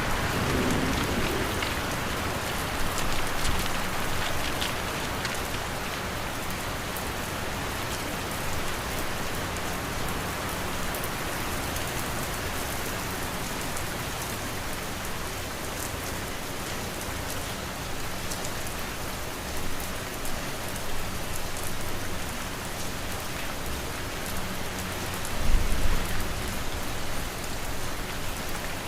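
Steady rain pattering on a surface, a continuous even hiss of drops, from a mixed rain-and-wind ambience track. A brief low rumble swells up about 25 seconds in.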